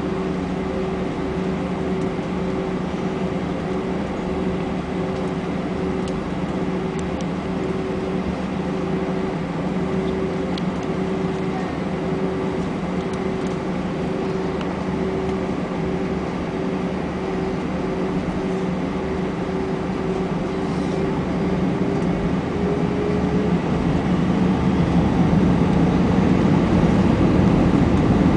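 Airbus A320 cabin noise with the jet engines running: a steady hum with a steady whine. Over the last several seconds the whine rises in pitch and the sound grows louder as engine thrust is increased.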